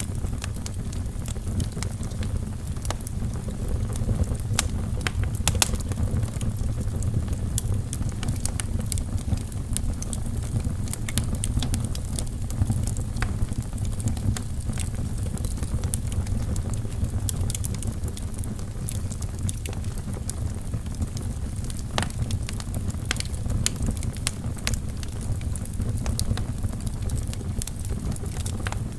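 Wood logs burning in a fireplace: a steady low rumble of the flames with frequent sharp crackles and pops from the burning wood, a few louder pops standing out.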